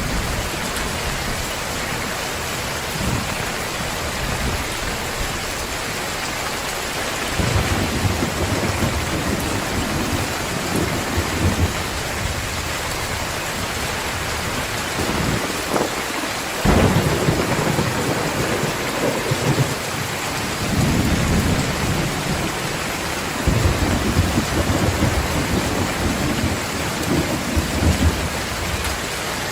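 Heavy rain pouring steadily, with thunder rumbling several times and a sharper crack of thunder about halfway through.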